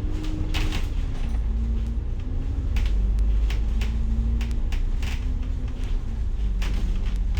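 Interior of a moving city bus: a steady low engine and road rumble with a humming drive tone that shifts up and down in pitch, and short rattles of the bus body and fittings every second or two.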